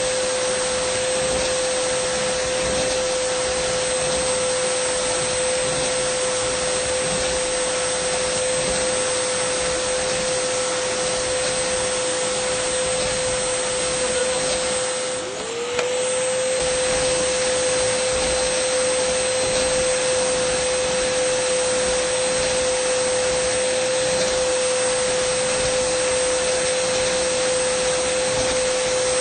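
Dyson vacuum cleaner running steadily, a rushing airflow hiss with a strong steady whine. About halfway through it briefly drops in level and pitch, then picks back up.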